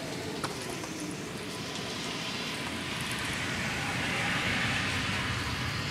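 Heavy rain falling steadily, with a car driving past on the wet street, its tyres hissing through standing water. The hiss swells to its loudest about four seconds in.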